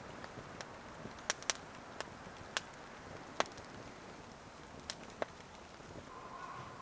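Wood fire crackling: a scatter of sharp, irregular pops over a low hiss. A faint steady high tone comes in near the end.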